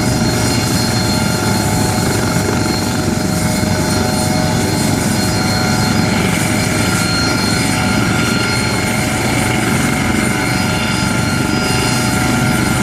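Aircraft engine running steadily: a loud, even noise with several high whining tones that hold constant throughout.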